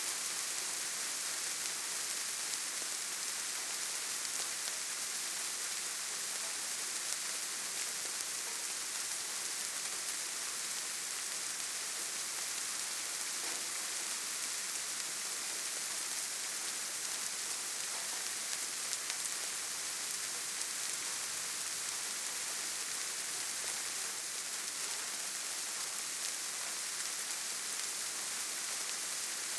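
Steady rainfall: an even, unbroken hiss with a few faint drop ticks.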